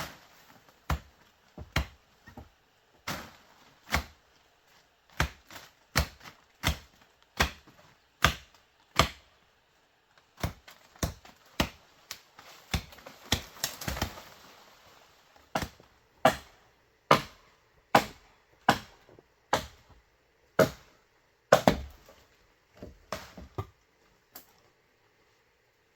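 Repeated sharp tool strikes on bamboo, irregular at about one or two a second, with a short pause about ten seconds in and a scraping rustle around thirteen to fourteen seconds.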